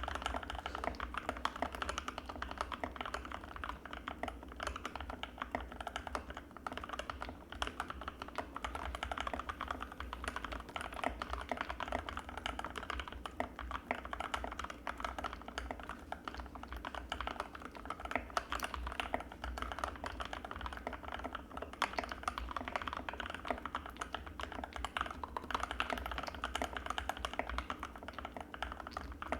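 Continuous fast typing on an Anne Pro 2 mechanical keyboard with Gateron Red linear switches, a dense run of key clacks.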